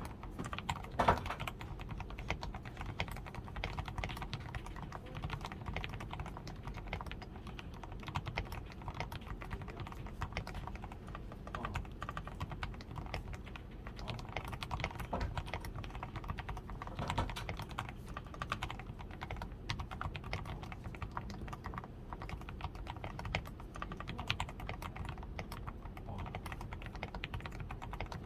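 Continuous typing on a DAREU A87 Pro mechanical keyboard with Krytox 105-lubed switches, a PCB tape mod, lubed stabilizers and XDA keycaps. It is a steady stream of keystrokes, with one louder stroke about a second in.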